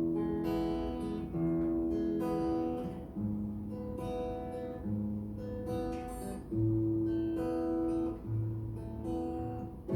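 Acoustic guitar playing a strummed chord intro to a slow song, the chords changing about every second.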